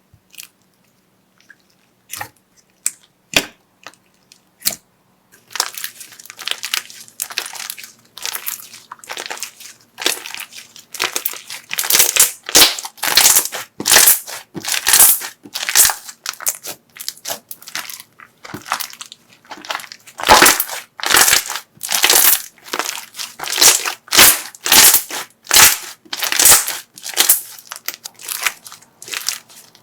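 Crunchy slime being squeezed and pressed, crackling and crunching in repeated strokes. It starts as a few sparse clicks, becomes steady dense crunching about five seconds in, and grows louder about twelve seconds in.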